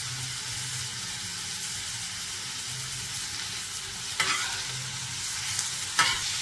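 Chopped onion, green chilli, curry leaves and coriander sizzling in oil on a tawa as they are sautéed. A steel spatula scrapes across the pan twice near the end.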